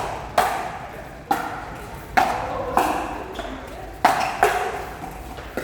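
A pickleball rally: paddles striking the plastic ball in quick back-and-forth exchanges, about six sharp pocks at uneven intervals, each with a short ring.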